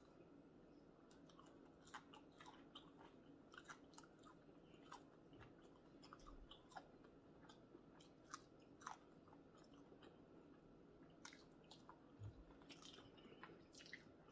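Faint close-up chewing by a person eating sausage, rice and cucumbers in sauce, with many scattered sharp little mouth clicks.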